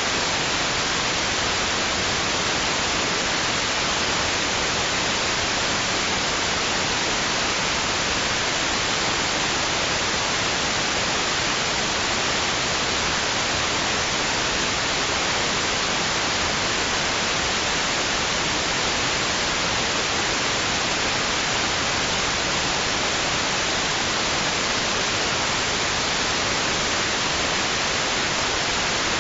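Steady white noise: an even, unchanging hiss, brightest toward the high end, with no rise and fall of waves.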